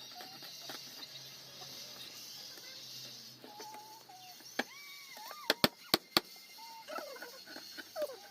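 A dog whimpering in short, whining calls that bend up and down in pitch, with four sharp metallic clicks a little past halfway, like a knife striking a tin can.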